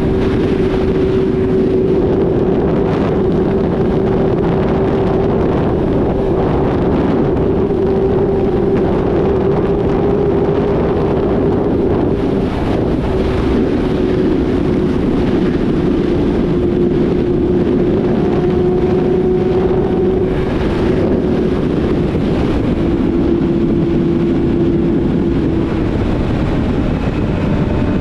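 Yamaha YZF-R6's inline-four engine through a full-system exhaust, running under steady throttle at cruise, its note easing slowly lower over the stretch. Wind noise on the microphone runs under it.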